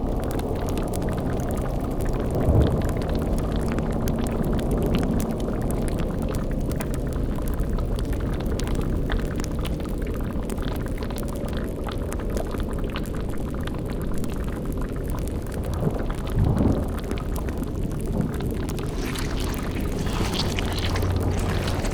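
Layered spooky ambience: a steady low rumbling drone under bubbling and crackling, the boiling cauldron and fire of the mix. It swells briefly twice, about two and a half seconds in and about sixteen seconds in, and a brighter hiss builds near the end.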